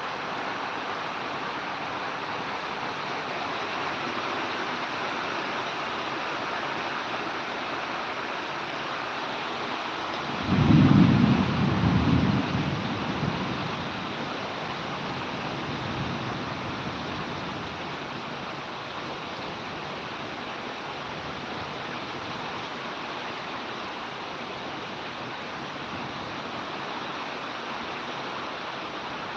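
Heavy rain pouring steadily. About ten seconds in, a loud, deep clap of thunder rumbles for two or three seconds, then fades back into the rain.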